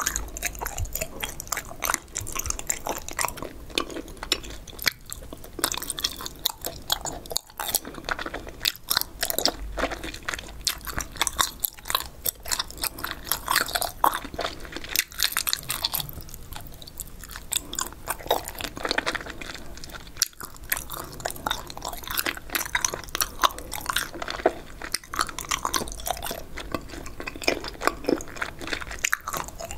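Close-miked chewing of a mouthful of spicy Korean stir-fried pork skin, a dense, continuous run of small crunchy and sticky clicks with louder crunches scattered through.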